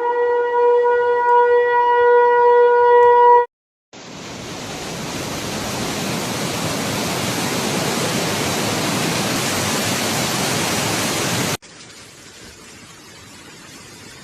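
A warning siren holds one steady wailing tone and then cuts off suddenly. After a brief gap, a loud steady rushing noise builds slowly and drops to a quieter hiss about twelve seconds in.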